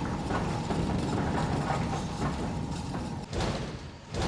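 Hydraulic test rig shaking a truck cab, a steady mechanical rattle and clatter, with two heavy thumps near the end.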